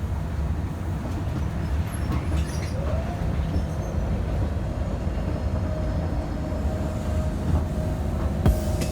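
Inside a moving commuter train carriage: the steady low rumble of the train running on its rails. A faint whine comes in about halfway through, and a couple of sharp clicks sound near the end.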